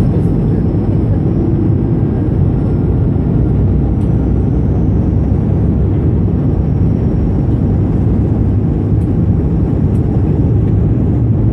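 Steady low cabin drone inside an Airbus A220-300 in flight, from its Pratt & Whitney PW1500G geared turbofan engines and the air rushing past the fuselage.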